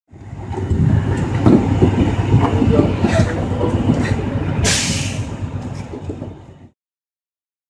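Livestock transport truck's metal trailer rumbling and clattering, with one sharp hissing clank about two-thirds through; the sound cuts off suddenly near the end.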